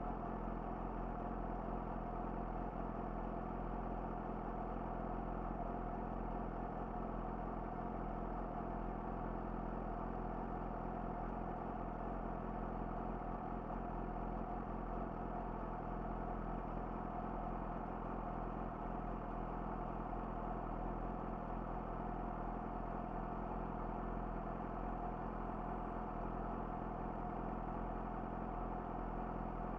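Yamaha YZF-R6's inline-four engine running through an Akrapovic slip-on exhaust, holding a steady engine speed with no revving.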